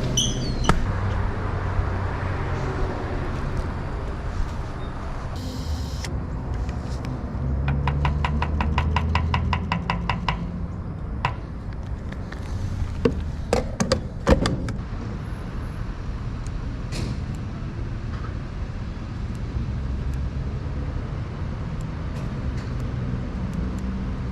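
Ducati Desert Sled's air-cooled L-twin running through a LeoVince exhaust with the dB killer removed, mostly at a steady low note, getting louder for a couple of seconds about eight seconds in. There is a run of rapid even ticks at about the same time, and a few sharp knocks around the middle.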